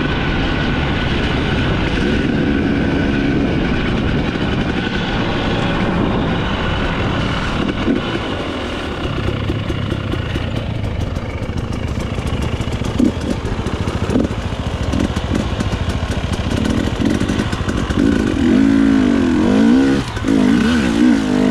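Enduro dirt bike engine running as it is ridden over a rough trail, the revs rising and falling with the throttle, with a few sharp knocks along the way. Near the end the revs swing up and down quickly several times.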